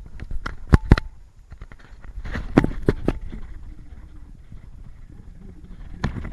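Several sharp knocks and clatter on a kayak, heard while a hooked tarpon is being fought, over a low steady rumble of wind and water.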